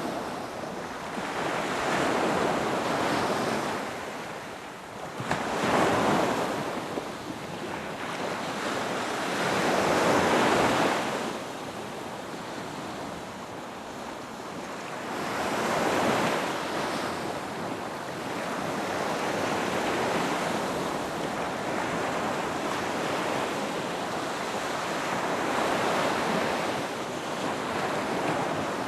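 Ocean waves breaking and washing up a beach, the surf swelling and falling back every few seconds, with some wind on the microphone.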